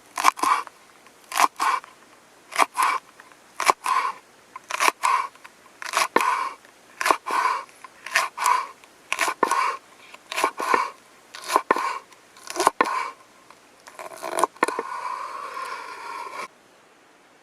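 A knife slicing through crisp raw vegetables onto a cutting board in slow, even strokes, about one cut a second, each a quick double crunch. Near the end comes a short scrape, as of the knife sliding across the board, which stops abruptly.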